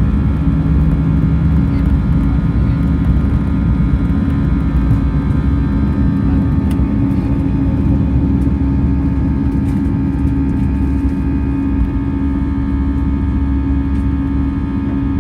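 Airbus A320 jet engines and airflow heard inside the passenger cabin: a steady deep rumble with a constant hum and several steady higher tones over it.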